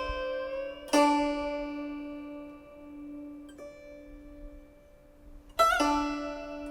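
Steel-string guzheng playing a slow, sparse passage of a Chaozhou folk tune: a few single plucked notes, each left to ring and die away, the last one, near the end, wavering in pitch as the string is pressed.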